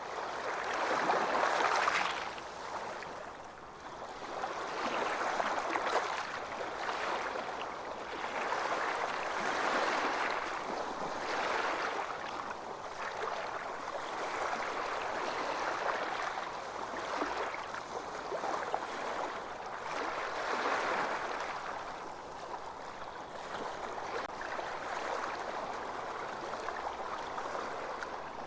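Ocean waves washing ashore: a steady hiss of surf that swells and eases every few seconds, the strongest swell about a second or two in.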